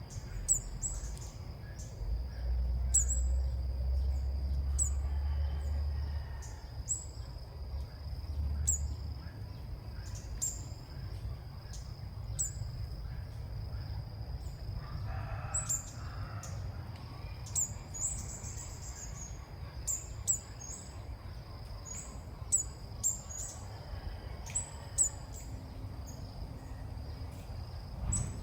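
Bird chirping: short, high-pitched chirps repeated at irregular intervals, over a steady thin high whine. A low rumble runs for a few seconds near the start.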